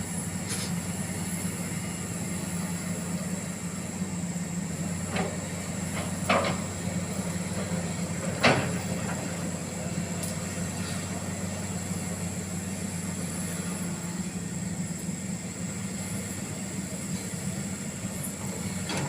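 Heavy-equipment diesel engine running steadily, with three sharp knocks, the loudest about eight seconds in.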